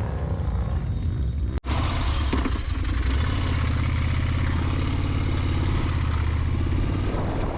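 Motorcycle engine running at a steady speed, broken by a brief cut about one and a half seconds in.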